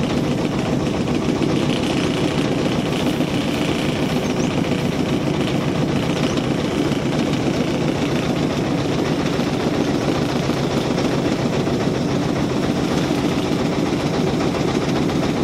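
A small engine running steadily at an even speed, a fast, close rumble with no change in pace.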